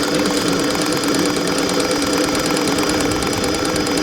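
Model steam engine of an RC boat running steadily in forward gear under steam pressure, a fast even beat over a steady hum.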